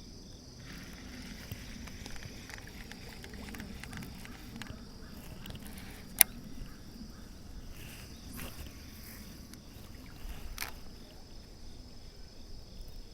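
Steady high-pitched chirping of crickets or other insects, with faint scattered ticks and low rustling, and one sharp click about six seconds in.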